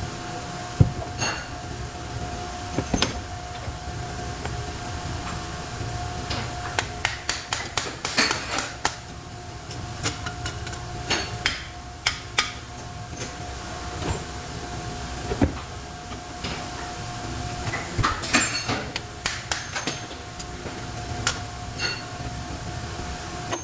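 Metal tools and parts clinking and knocking irregularly as a dynamo is worked on by hand, with a steady hum underneath.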